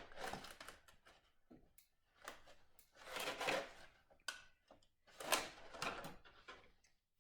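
A milk jug being handled on a tabletop: rustling and knocks in three short bursts.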